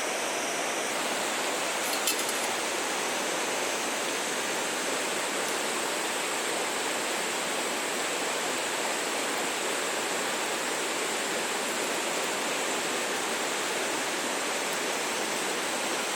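Steady rushing of flowing water, with a faint click about two seconds in.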